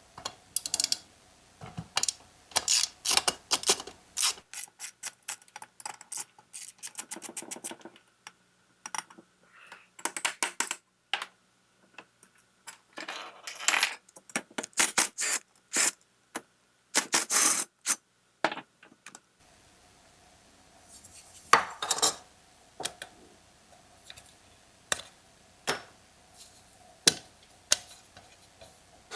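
Metal clicks and clinks from tools and small chainsaw parts being handled and fitted during reassembly of a Husqvarna 240, in irregular clusters with a quick run of clicks partway through.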